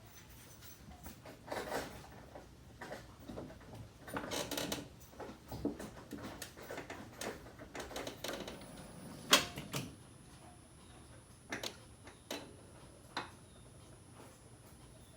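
Scattered, irregular clicks and knocks, with one sharp knock about nine seconds in that is the loudest; there is no engine running or cranking.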